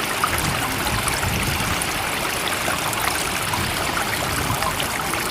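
Steady rushing water with many small splashes and trickles, level and unbroken, with no rise and fall of separate waves.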